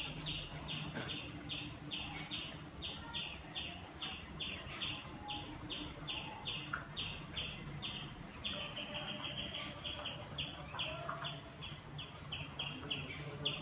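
A bird chirping steadily: a short, faint note repeated evenly about three times a second.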